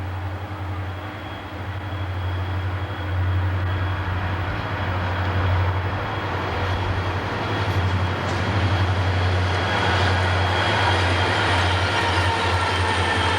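A train running on the rails, growing louder as it comes closer, with faint squealing in the upper range near the end.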